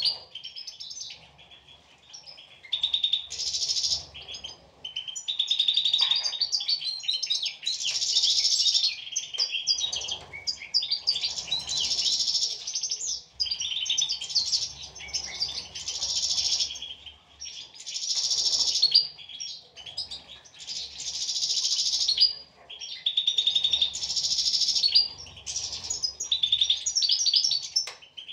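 European goldfinches singing: fast, tinkling twittered phrases in runs of a second or two, broken by short pauses.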